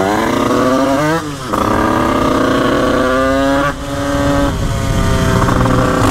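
Two-stroke Yamaha DT with a 96 cc Bidalot kit and KRM expansion pipe accelerating. The revs climb and drop back sharply twice, about a second in and again near four seconds, as it shifts up through the gears.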